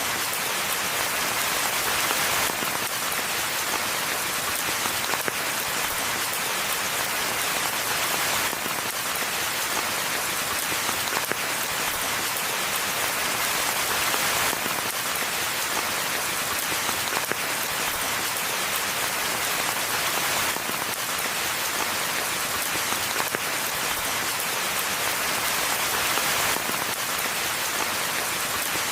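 Steady rain falling in a forest, an even, dense patter of drops that swells slightly every several seconds.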